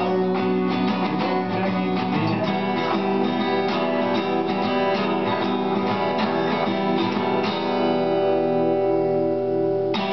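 Acoustic guitar strumming chords, then settling on one held chord at about seven and a half seconds that rings and cuts off sharply near the end.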